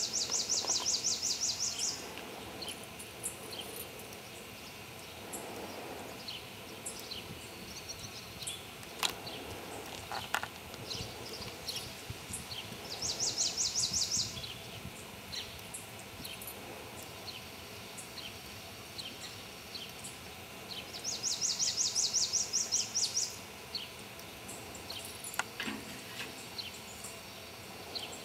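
A songbird's high, rapid trill, about two seconds long, heard three times: at the start, about 13 seconds in, and again about 21 seconds in. Fainter bird chirps and a few light clicks sound between the trills.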